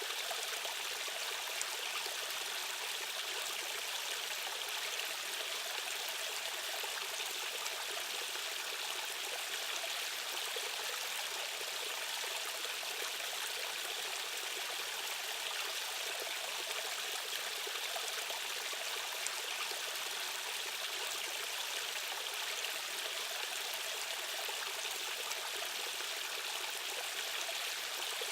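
Fast-flowing stream water rushing steadily, an even, unbroken hiss with little low rumble.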